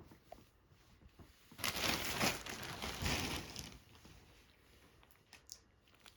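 Packaging crinkling and rustling as it is handled, for about two seconds in the middle, followed by a few faint ticks.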